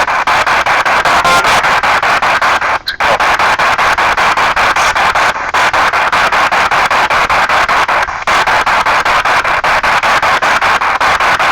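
P-SB7 spirit box sweeping rapidly through radio stations: loud hissing static chopped into quick fragments by the sweep. The sound drops out briefly three times.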